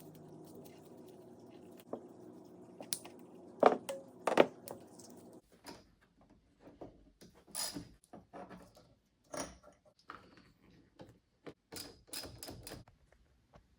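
Scattered clicks and knocks of hands handling wiring and parts in a vehicle's engine bay, with the two loudest knocks about four seconds in.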